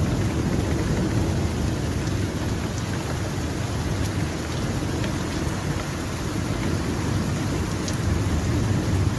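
Heavy thunderstorm rain falling: a steady, dense rush of noise with a strong low rumble underneath.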